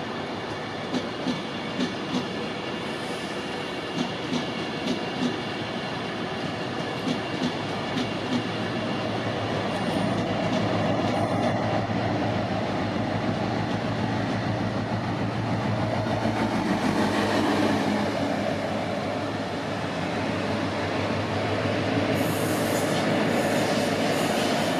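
A train passing on the main line, its wheels clicking over rail joints in quick pairs for the first eight seconds or so, then a louder steady rumble from about ten seconds in.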